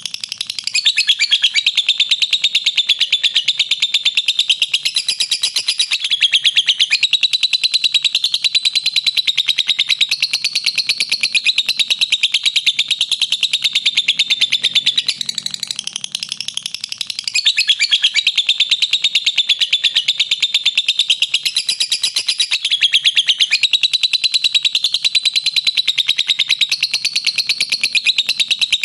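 Lovebird singing its long 'ngekek': a continuous run of very rapid, high chattering notes, many per second. It softens briefly at the start and again about halfway through, then runs on at full strength.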